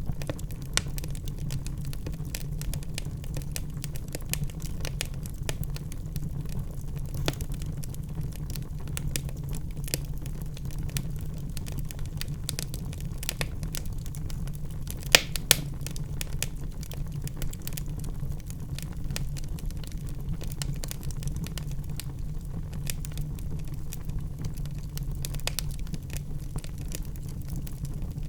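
Wood fire crackling in a fireplace: constant small irregular snaps and pops over a low steady rumble, with two sharper, louder pops about halfway through.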